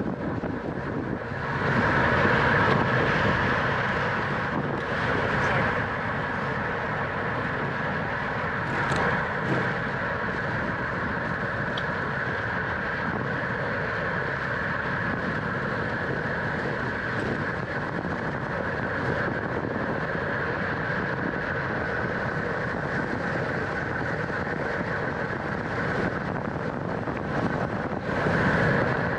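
Steady rush of wind and road-bike noise at racing speed in a criterium, with louder swells about two seconds in and near the end.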